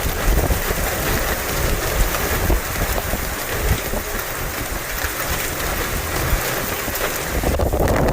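Severe straight-line wind blowing hard, buffeting the microphone with a heavy, uneven low rumble under a dense hiss.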